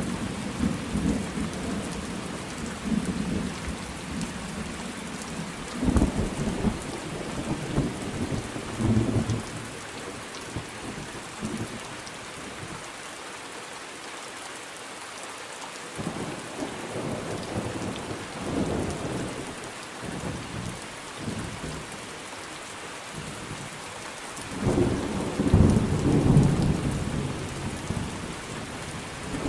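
Thunderstorm: steady rain with rolling thunder. A rumble fades out in the first couple of seconds, softer rumbles come and go through the middle, and a louder peal of thunder rolls in about 25 seconds in.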